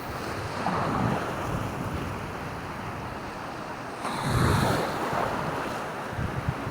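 Surf washing on the shore, with wind buffeting the microphone in low rumbles; a louder surge of water builds about four seconds in.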